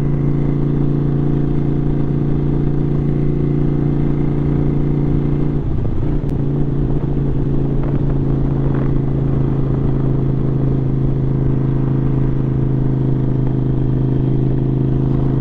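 Motorcycle engine running steadily while riding, with a brief change in the engine note about five and a half seconds in.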